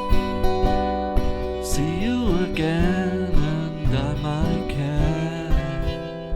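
Acoustic guitar strumming a country-style song, with a lead melody line that bends and slides in pitch through the middle.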